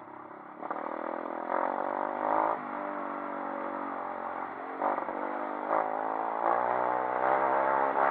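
A 140cc pit bike's single-cylinder engine running, its pitch rising and falling in steps as the throttle is opened and eased.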